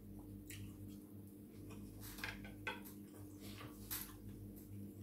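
A man eating a mouthful of pasta: chewing with several sharp, wet mouth clicks, over a steady low hum.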